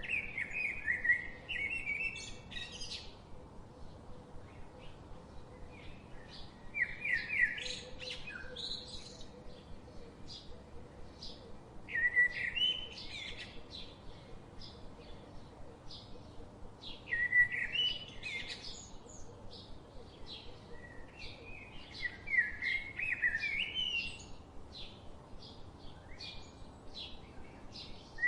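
Birds singing: one bird repeats a warbling song phrase of two to three seconds about every five seconds, with faint short chirps from other birds in between.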